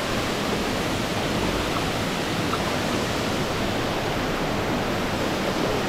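River water rushing, a steady even rush.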